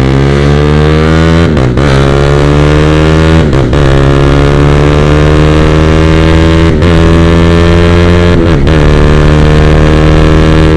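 Honda CB150R's 150 cc single-cylinder engine pulling hard under full throttle, its exhaust note broken by very short ignition cuts as the DIY quickshifter fires on each upshift. Most cuts come as a quick double stutter, a fault the owner puts down to the non-genuine brake-light switch used as the shift sensor.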